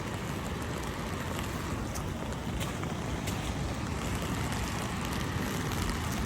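Steady noise of a heavy rainstorm, with wind rumbling on the microphone.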